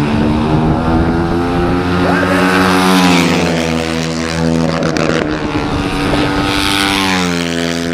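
Single-cylinder flat track racing motorcycles running on the dirt track. The engine note climbs and then drops sharply twice, about three seconds in and again near the end.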